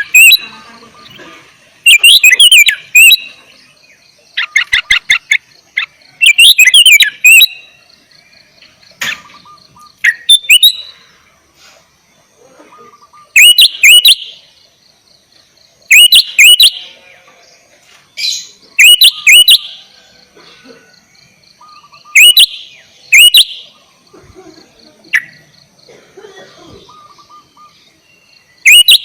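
Sooty-headed bulbul (kutilang) singing loudly: short, bubbling phrases of quick rising and falling whistled notes, repeated every two to three seconds with brief pauses between.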